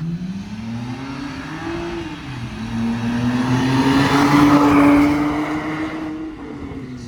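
BMW 328i (E90) straight-six with its muffler deleted, accelerating: the engine note climbs, drops at a gear change about two seconds in, then climbs again and grows louder before easing off near the end.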